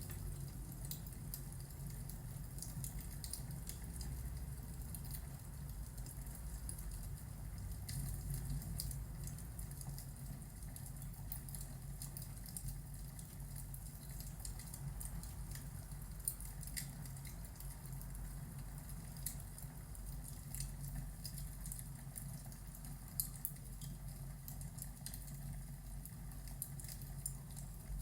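Wood fire crackling, with scattered sharp pops and ticks over a low steady rumble.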